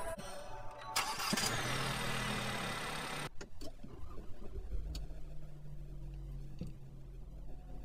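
MG7 car engine starting and running. A sharp click about a second in is followed by a couple of seconds of rushing engine noise that stops abruptly, then a low, steady idle hum.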